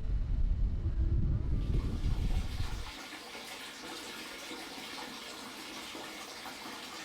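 A low rumble for about the first three seconds, then a steady hiss of falling rain.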